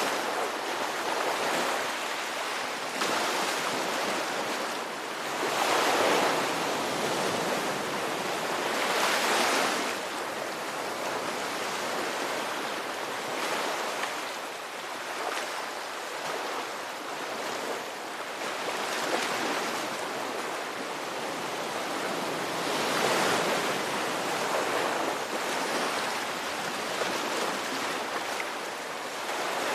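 Ocean surf: waves breaking and washing in, swelling every few seconds, with a calmer, more even stretch in the middle.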